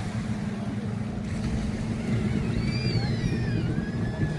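Street ambience dominated by a steady low engine hum, with a few high gliding tones in the second half.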